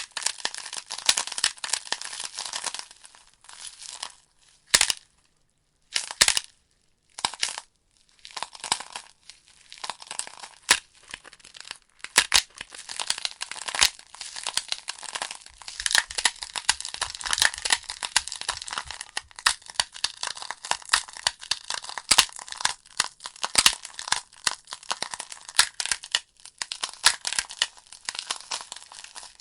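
Logs burning in a fireplace, crackling with dense, irregular sharp snaps and pops. The crackle thins to a few isolated pops with brief quiet gaps about five to eight seconds in, then turns dense again.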